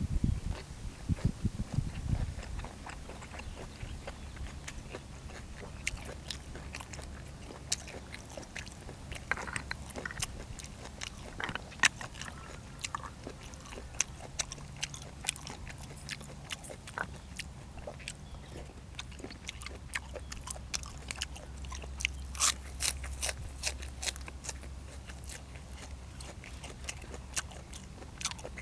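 Close-miked eating sounds: chewing with frequent crisp bites and crunches, from a person eating boiled apple snails with raw vegetables and sticky rice.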